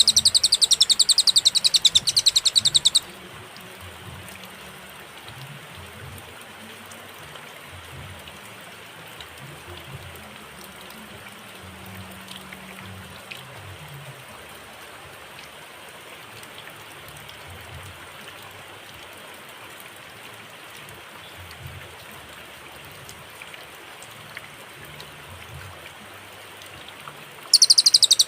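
A cililin songbird sings a loud, very rapid, high-pitched trill for about three seconds. It stops and leaves a long pause of faint background hiss, then the same trill starts again near the end.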